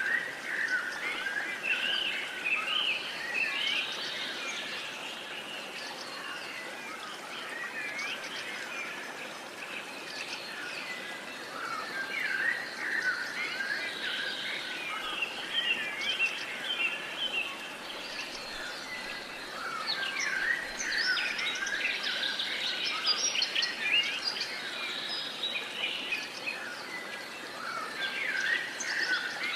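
Many songbirds singing together in a dawn-chorus-like mix of chirps, trills and whistles, busiest in two stretches, over a faint steady background hiss.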